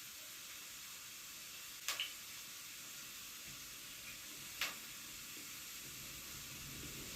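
Food sizzling in a frying pan, a steady hiss, with sharp clicks twice about two seconds in and once more near five seconds.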